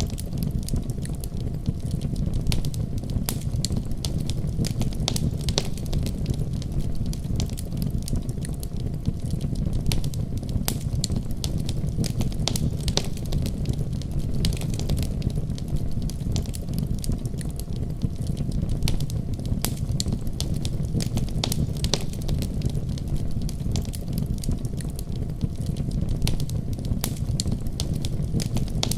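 Wood fire crackling in a fireplace, with frequent irregular sharp pops, over a steady deep rumble of a winter storm.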